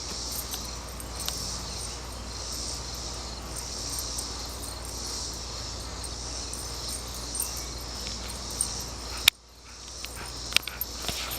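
Insects chirping steadily in a high, gently pulsing drone, with a sharp click about nine seconds in and a few light ticks after it.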